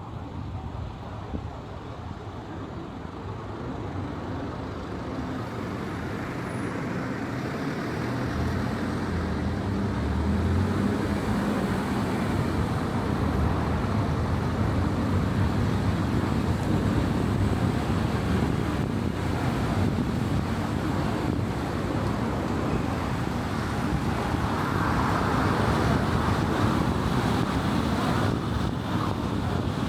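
Car driving on a road, with a steady rush of tyre and road noise and the engine under it. The noise grows louder over about the first ten seconds, then holds steady.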